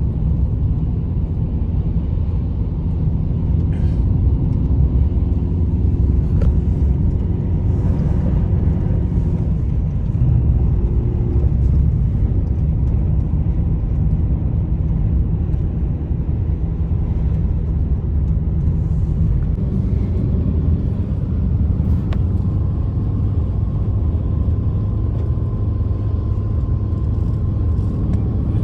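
Steady low roar of blizzard wind, with a faint whistle over it.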